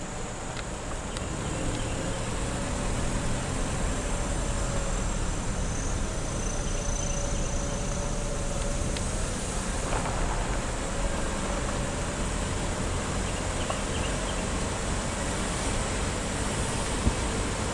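A vehicle's engine and tyre noise while driving over a rough, flood-damaged road, a steady rumble that grows louder about two seconds in.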